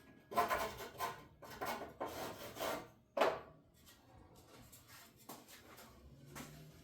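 Rough scraping and rubbing on wood in about five irregular strokes, then one sharp short scrape; faint handling noise follows.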